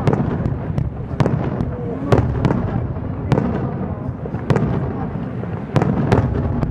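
Aerial firework shells bursting in quick succession, a sharp bang about once a second over a continuous rumble of booms and echoes.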